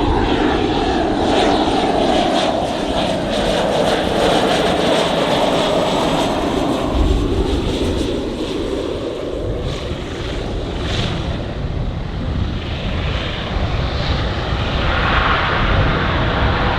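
Aircraft engines running loudly as an aircraft passes close by, the noise sliding lower in pitch over the first six seconds or so.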